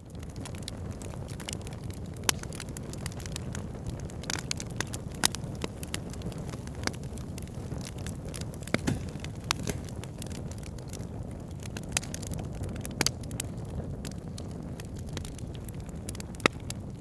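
Wood fire burning in a fireplace: a steady low rumble with frequent sharp crackles and pops, a few much louder snaps among them. It fades in at the very start.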